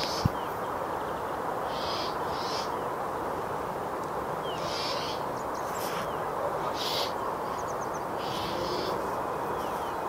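Bird calls: short, high chirps every second or two, some in quick pairs, over a steady hiss of background ambience.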